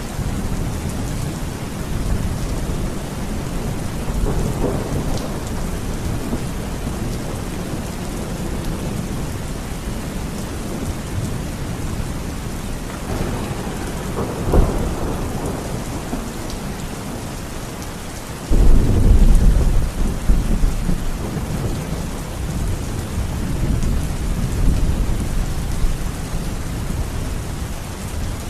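Heavy rain falling steadily, with thunder: a sharp crack about halfway through, then a sudden loud low rumble a few seconds later that rolls on and fades.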